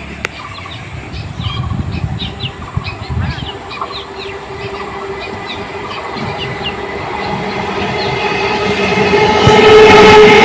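Electric suburban local train approaching and getting steadily louder. Its rumble and a rising whine of steady tones build to a peak near the end, with birds chirping in the first few seconds.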